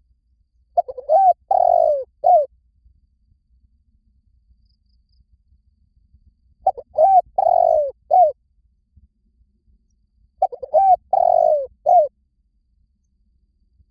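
Spotted dove cooing in three phrases a few seconds apart. Each phrase is a short run of low coos with one longer drawn-out note near its end.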